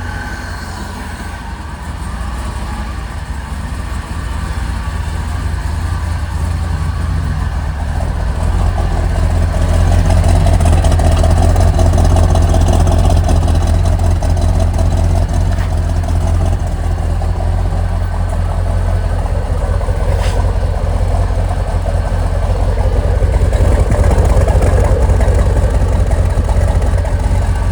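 1972 Chevrolet Corvette's 454 cubic-inch big-block V8 idling steadily with a deep exhaust rumble, growing louder over the first ten seconds and then holding.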